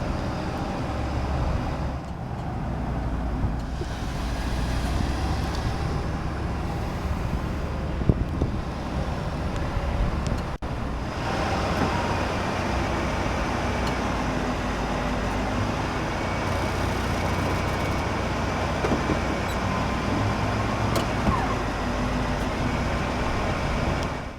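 1983 Buick Riviera's 5.0-litre V8 idling steadily, with a brief drop-out about ten seconds in.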